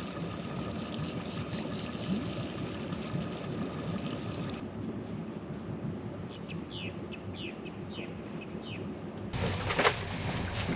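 Steady outdoor ambience with a low hum, then a bird giving a run of short downward-sliding calls, about seven in two seconds. Near the end a boat running on the water, with wind on the microphone and a single knock.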